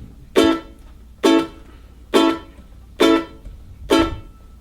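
Ukulele strumming a steady rhythm: five short, clipped chord strums, about one a second.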